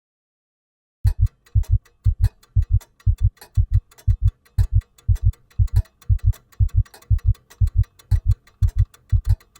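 A heartbeat sound, paired low thumps in a steady lub-dub rhythm of about two beats a second, starting about a second in after silence, with faint ticking clicks between the beats.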